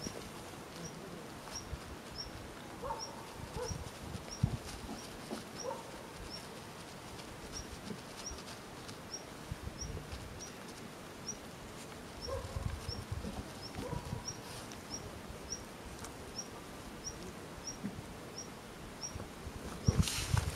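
A small bird repeats a short high chirp about twice a second, over soft rustling and knocks from a puppy eating out of a plastic bag and a person handling it, with a louder rustle near the end.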